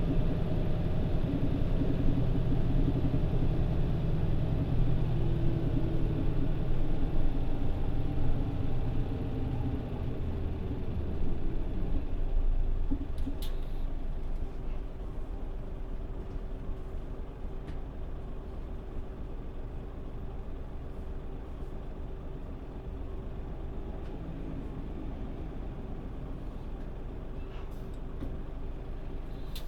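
Mitsubishi Fuso PJ-MP35JM city bus engine running as the bus slows for a stop, then settling to a quieter idle about 12 seconds in. A brief sharp hiss comes about 13 seconds in.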